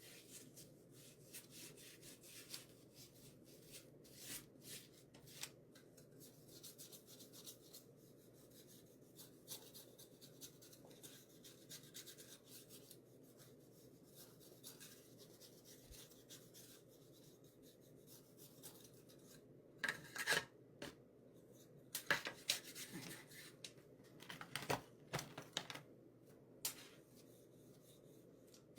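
Faint, scratchy rubbing as Gathered Twigs distress ink is worked onto a painted wooden craft piece to distress it, in many short strokes, with a run of louder strokes in the last third.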